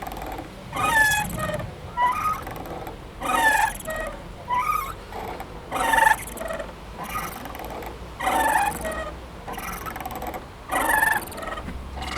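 Playground swing squeaking in a repeating rhythm as it goes back and forth, a short squeal with a bending pitch every one to two seconds.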